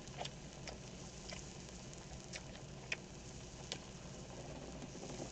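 Pork belly frying on a grill pan, fat popping and spattering in faint irregular ticks over a steady low hum.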